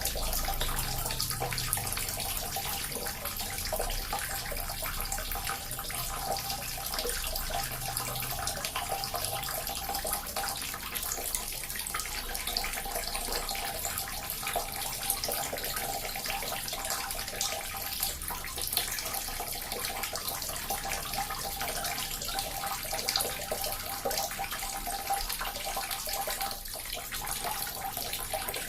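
A small water fountain running steadily, its falling water splashing with an even rush.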